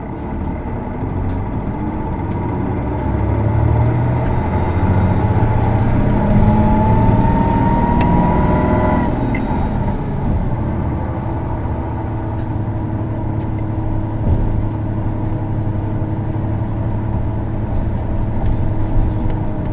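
Isuzu Erga city bus's six-cylinder diesel engine heard from inside the cabin, pulling away with a rising whine for about nine seconds, then easing off and running on at a steady note. The engine has a peculiar abnormal noise, a known trait of this PKG-era Erga, most often on the automatics.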